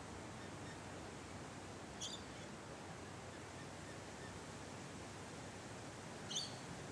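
Two brief, high-pitched bird chirps, one about two seconds in and one near the end, over a steady background hiss.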